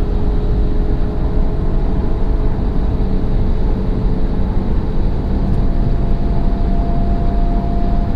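Peugeot 308 GT's 1.6-litre turbocharged four-cylinder at steady cruising speed, heard from inside the cabin: a steady low drone with road noise and an engine hum that holds its pitch.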